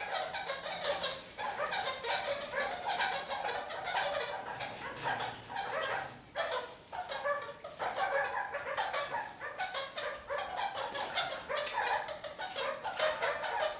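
Red-crowned kakariki (parakeets) chattering and calling without a break, a busy stream of short, quick calls.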